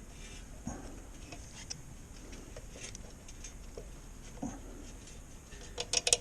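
Scattered light clicks and taps of hands working wiring into a small clamp on a mini bike frame, with a quick run of sharper clicks near the end.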